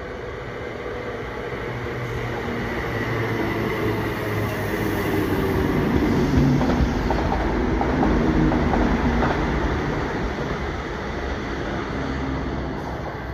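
ScotRail electric multiple unit running past along the platform. Its sound builds as it approaches and is loudest as the carriages go by, with light wheel clicks over the rails, then eases off as it moves away.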